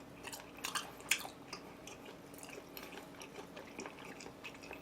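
A person chewing chewy pork trotter (jokbal) skin close to the microphone: scattered soft, wet mouth clicks and smacks, the sharpest about a second in.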